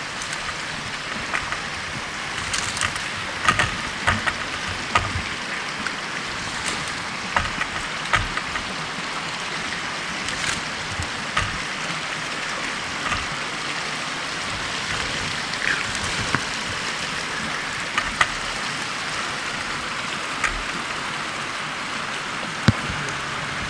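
Steady hiss of water, with many scattered sharp ticks and drops through it.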